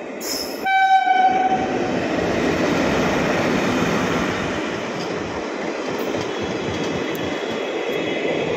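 An electric locomotive's horn gives one short blast about a second in. Then a passenger train's coaches roll past close by, their wheels on the rails making a steady loud rumble.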